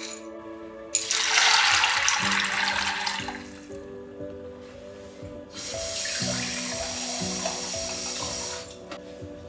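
Water running from a tap into a sink in two stretches: one starting about a second in and lasting a couple of seconds, then a louder, steadier run of about three seconds that stops sharply. Background music plays throughout.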